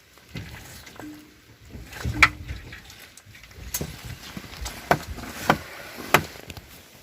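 Several sharp metallic knocks and clicks, spaced irregularly about a second apart, with a couple of short squeaks, as a stuck part on an old car is worked at by hand.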